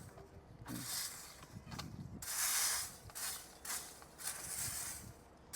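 Irregular bursts of scraping and rustling as debris is swept and picked up off pavement, the loudest about two seconds in.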